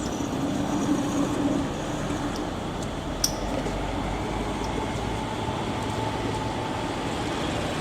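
Steady vehicle engine and road noise, with a single sharp click about three seconds in.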